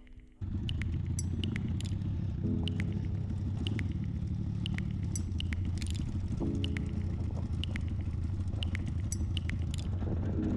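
Off-road vehicle driving on a rough mountain track: a steady low engine and road rumble that starts abruptly about half a second in, with scattered clicks and knocks of stones and loose parts.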